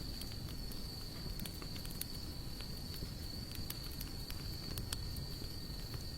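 Wood fire of sawtooth oak and mixed hardwood crackling, with irregular sharp pops over a low rumble, while an insect sings one steady high note throughout.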